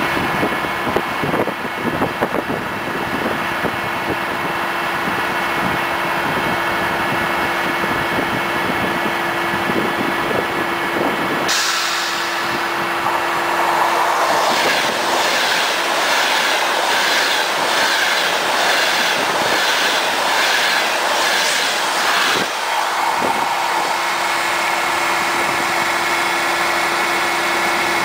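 A Eurostar Italia train running through the station on the next track: a rush of noise sets in suddenly about a third of the way in, then a fast, even clatter of its wheels over the rail joints lasts about eight seconds and cuts off sharply. Underneath is the steady hum of the standing train waiting for it to pass.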